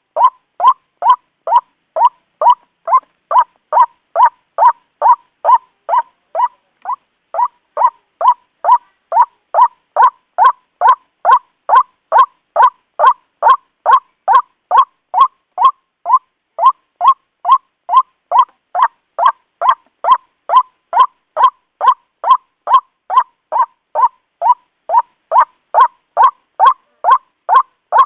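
White-breasted waterhen (ruak-ruak) lure call: one short note centred near 1 kHz, repeated evenly about twice a second without a break.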